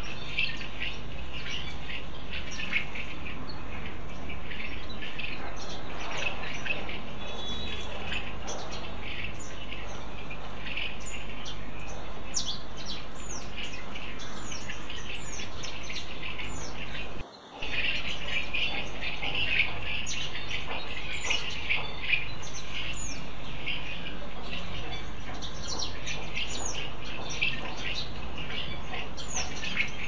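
Birds chirping and calling continuously, many short overlapping chirps and quick falling notes. The sound cuts out briefly a little past the middle.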